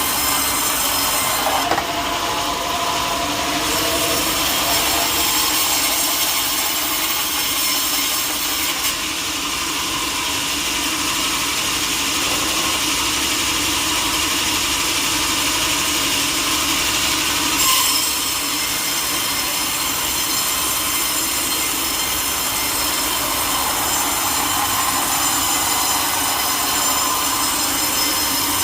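A sawmill saw cutting through teak wood: a continuous, steady cutting noise with a thin, steady high whine running through it.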